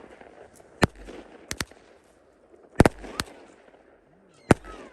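Fireworks going off: about six sharp bangs at irregular gaps, with faint crackling between them, the loudest near the middle.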